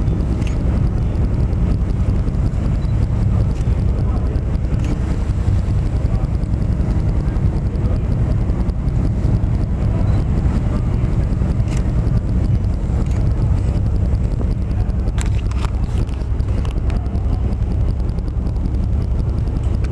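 Steady low rumble of the Star Ferry under way, engine drone and water noise mixed with wind buffeting the microphone.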